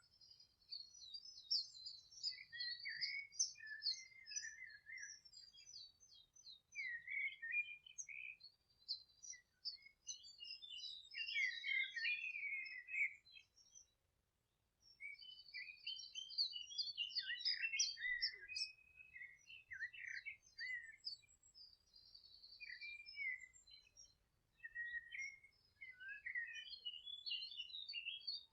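Several songbirds singing at once: overlapping high chirps, short trills and twittering notes that go on almost without a break. The birdsong drops out for about a second near the middle.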